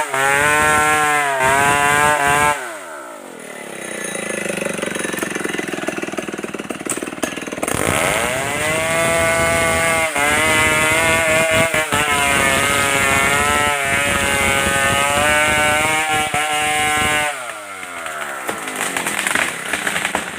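Stihl 070 two-stroke chainsaw at full throttle, let off to idle about two and a half seconds in, revved back up around eight seconds and held high for several seconds, then let off again near the end.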